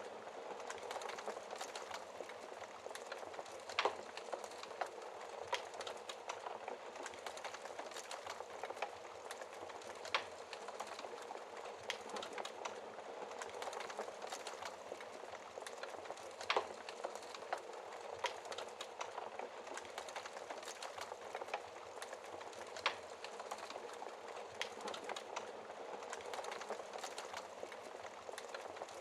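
Wood fire crackling in a fireplace: a steady hiss of burning logs dotted with many small crackles, and a louder sharp pop about every six seconds.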